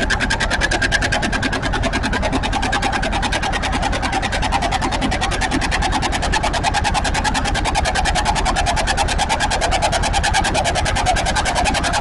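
Tractor engine running hard under load during a pull, with a rapid, even exhaust beat.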